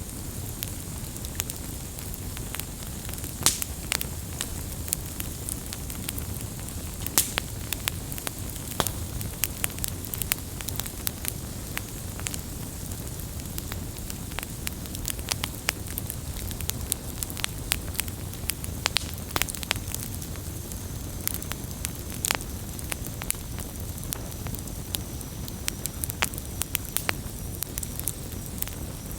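Wood campfire burning and crackling: a steady low rumble of flame with frequent irregular sharp pops and snaps, a few louder than the rest.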